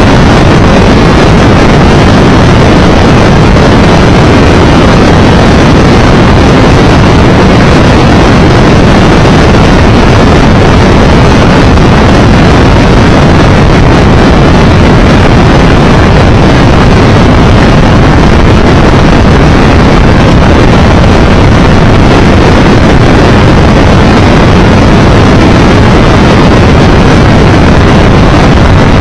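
Loud, steady wind rush on the microphone of a Triumph Tiger Explorer 1200 motorcycle moving at road speed, with no breaks or changes.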